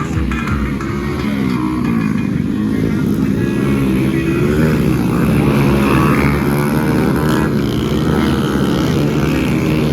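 Small single-cylinder four-stroke Honda Pop 100–110 motorcycle engines revving up and down under racing throttle, several pitches overlapping as the bikes accelerate and back off.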